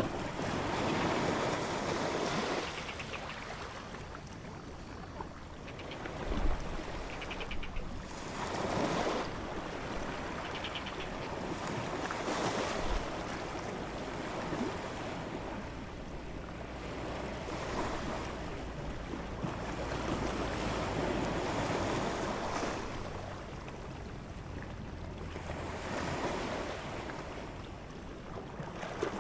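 Ocean surf: waves washing in and out, an even rushing noise that swells and fades every few seconds, with two brief low thumps.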